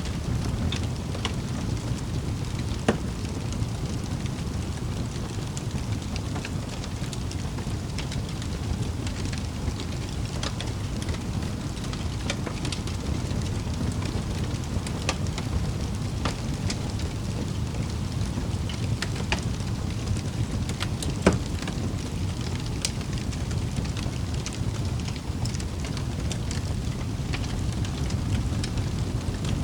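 Wood fire crackling in a fireplace: a steady low rumble of flames with scattered sharp pops and snaps, two of them louder than the rest.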